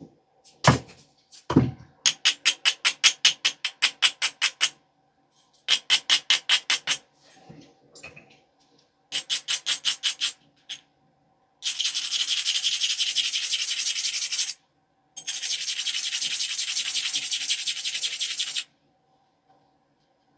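Edge of a knapped stone biface being abraded to prepare it for flaking: runs of quick rasping strokes, about five a second, then two longer, denser stretches of scraping in the second half. Two sharp knocks come in the first two seconds.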